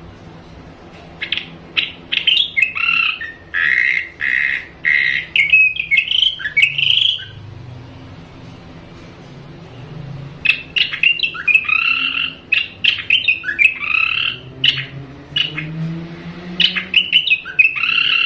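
Ashy drongos calling: quick, varied runs of harsh and whistled notes in two bouts, with a pause of about three seconds in the middle. A faint low drone runs underneath.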